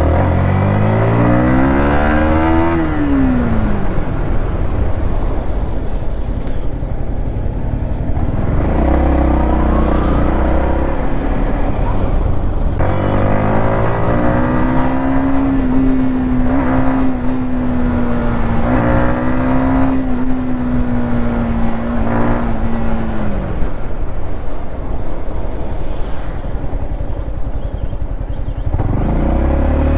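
Modified Yamaha MT-15's single-cylinder 155 cc engine under riding load: it revs up and eases off in the first few seconds, climbs again and holds a steady high pitch for about ten seconds of cruising, then drops away and picks up once more near the end, with wind rush over it.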